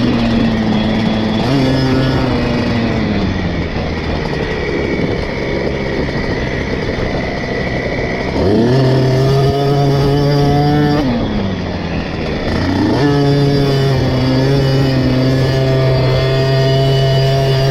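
KTM SX 50's small two-stroke single-cylinder engine on the throttle and off it through a motocross lap: the engine note falls away early, stays low for a few seconds, climbs sharply about halfway through, drops again, then rises and holds near the end.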